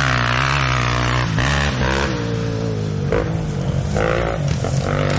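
Off-road motorcycle engine running hard under throttle, its pitch rising and dropping several times as the rider opens and closes the throttle.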